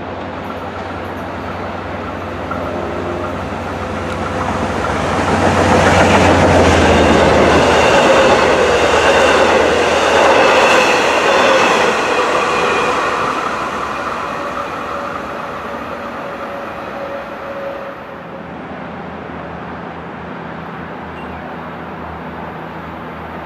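A Long Island Rail Road train passing by. Its sound builds over a few seconds, is loudest for about six seconds with a tone that drops slightly in pitch, then fades away.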